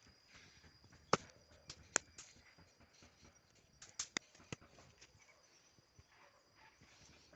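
A steady high insect drone, like crickets, with a scattering of sharp knocks and clicks, about eight in all, in two clusters near the start and the middle.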